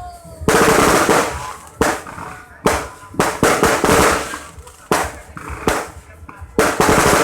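Fireworks exploding overhead: a rapid, irregular series of loud bangs, each trailing off.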